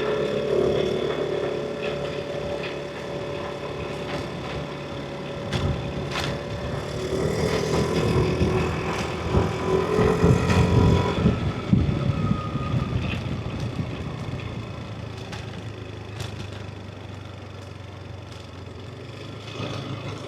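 Yamaha NMAX V3 scooter's single-cylinder engine running under way, with road and wind noise. It grows louder from about a third of the way in, then eases off and settles to a lower, steadier drone for the second half.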